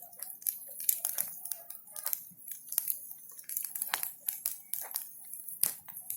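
Bonfire of branches burning, wood crackling and popping irregularly several times a second.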